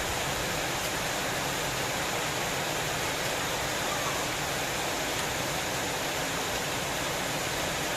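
Steady rainfall, an even hiss without distinct drops, thunder or changes.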